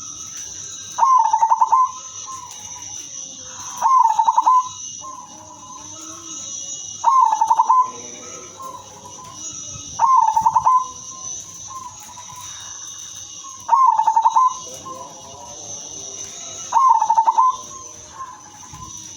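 Female silver zebra dove (perkutut) cooing: a fast, pulsed, warbling coo repeated six times, about every three seconds, with softer calls in between. A steady high-pitched whine, from insects or electrical noise, runs underneath.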